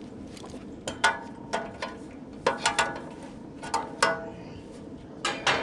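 Metal tools knocking against a condenser fan blade hub and motor shaft, about ten sharp clanks in irregular pairs, each leaving a brief metallic ring.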